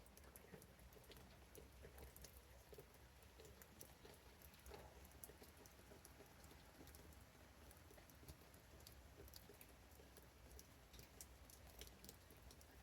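Near silence with faint, irregular ticks of raindrops pattering over a low steady hum.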